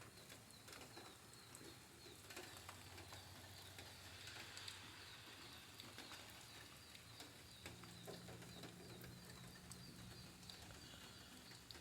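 Near silence: faint light rain with scattered soft drips, and a bird calling faintly in the background.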